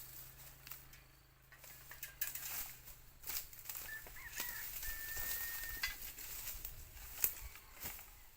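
Chickens calling, with one steady call about a second long midway, over scattered knocks and taps; the sharpest knock comes near the end.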